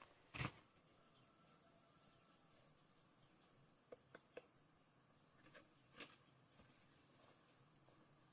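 Faint, steady high-pitched insect trill in the background, with one brief knock about half a second in and a few faint clicks later on.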